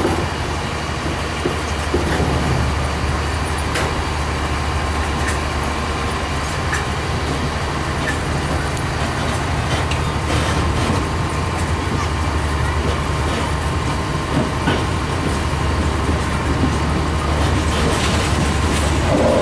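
Passenger train running along the track, heard from inside the carriage at an open window: a steady low rumble with occasional sharp clicks at uneven intervals.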